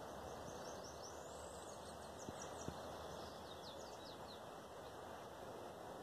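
Songbird calling: a quick run of short, high, sliding notes that stops about four and a half seconds in, over a steady background hiss, with two faint clicks.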